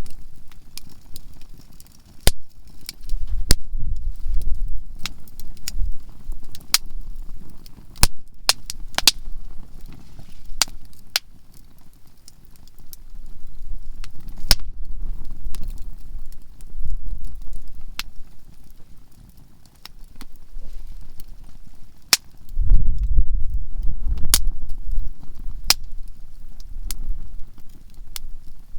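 Campfire of conifer firewood crackling, with frequent sharp, irregular pops as the softwood bursts. A low rumble swells and fades a few times beneath the pops.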